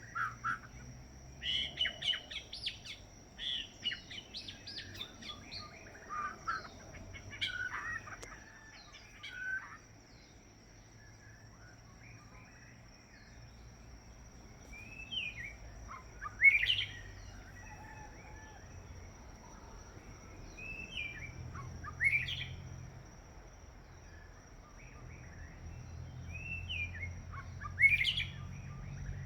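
White-rumped shama singing: a rapid, varied run of whistled phrases and trills for about the first ten seconds, then single phrases every few seconds, several ending in a quick rising sweep.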